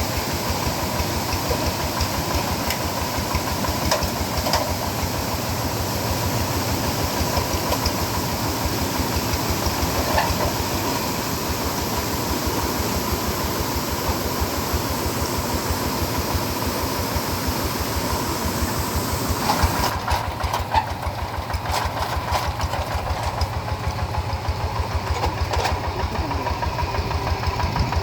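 Two-wheel paddy hand tractor's single-cylinder diesel engine running steadily, with a fast, even train of firing beats. A rushing background noise drops away about twenty seconds in.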